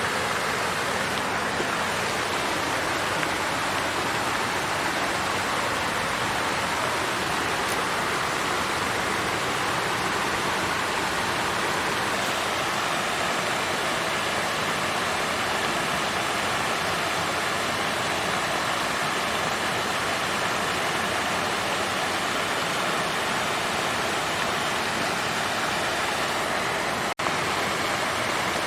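Water fountain's flowing, splashing water: a steady, even rush with no change in level, broken only by a split-second dropout near the end.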